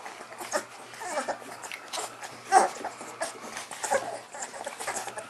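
Young puppies whimpering and squeaking in a string of short cries, with one louder, falling yelp about halfway through.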